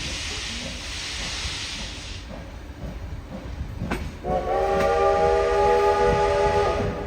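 Steam locomotive hissing as it vents steam for about two seconds, then one whistle blast lasting about two and a half seconds, over a low running rumble.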